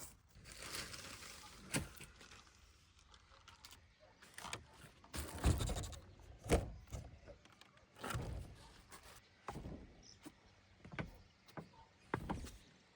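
Rustling of cut Labrador tea stems being handled and spread out to dry, with scattered knocks and a few louder thumps around the middle.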